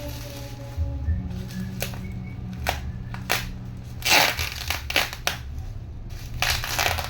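Packing material being unwrapped and pulled off a box: plastic crinkling and tearing in short irregular bursts, the loudest about four seconds in and again near the end.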